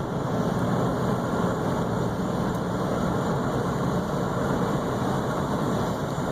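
Steady car noise heard from inside the cabin: a vehicle's engine running with an even rumble, without breaks.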